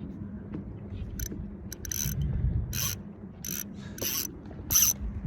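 Fishing reel's ratchet clicking in short rasping bursts, about six or seven of them, roughly every two-thirds of a second, starting about a second in, as a snagged line is worked. A low steady rumble runs underneath.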